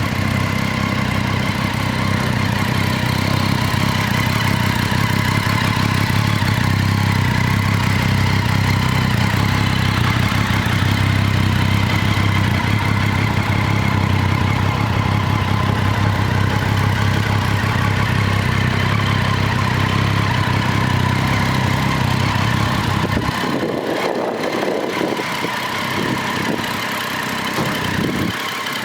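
Triumph Street Triple 675's three-cylinder engine idling steadily. About three-quarters of the way through, the low engine note drops away abruptly.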